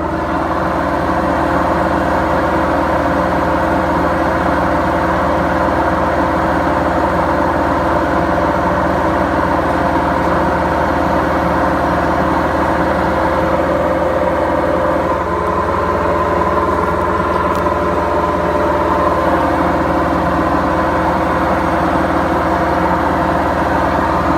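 Beko washing machine drum turning at speed with worn drum bearings: a loud, steady mechanical drone with a constant hum that shifts slightly about two-thirds of the way through.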